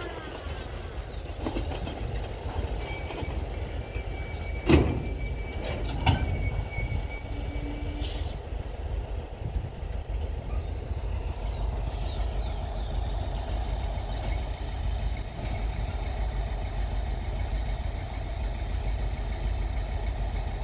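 Chemical weed-control train's cars rolling along the track: a steady low rumble with two sharp knocks about five and six seconds in, and a thin high squeal from about three to eight seconds in.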